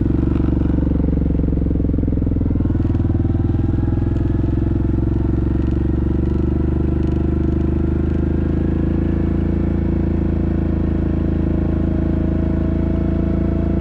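Yamaha Grizzly ATV's single-cylinder engine running steadily under way, its pitch creeping up slightly in the second half.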